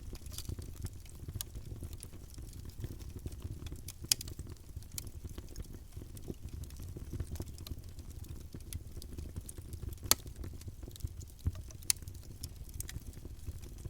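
Campfire burning: a steady low rumble of flames under continual small crackles, with a few louder sharp pops from the burning wood.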